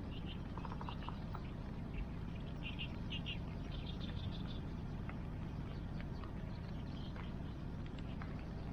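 Wood campfire crackling with a few sharp pops over the steady rush of rain and river water. Short runs of quick chirping calls come in about a second in and again around three and four seconds in.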